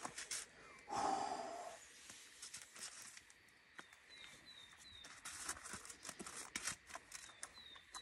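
Small bird calling: short, high, falling chirps, three in a row near the middle and again near the end. Under them is the rustle of clothing as trousers are pulled off, with a brief louder noise about a second in.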